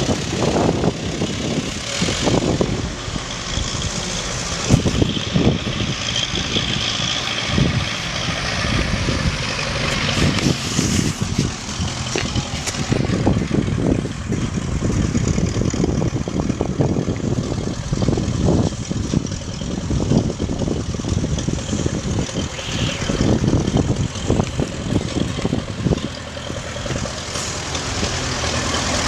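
Tractor engine running steadily, with irregular knocks and rattles over it.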